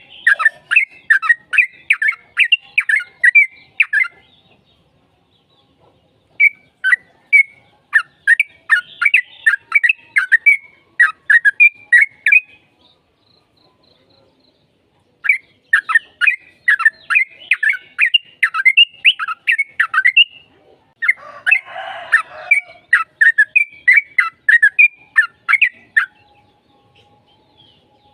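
Yellow-vented bulbul song: four long runs of quick, clear chirped notes, about three a second, separated by pauses of two to three seconds. A harsher, scratchier call overlaps the last run near its start.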